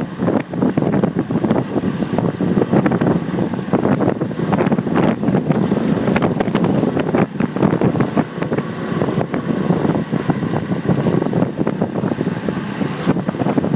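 Wind buffeting the microphone of a phone mounted on a moving motorcycle, a loud fluttering rush over road and traffic noise.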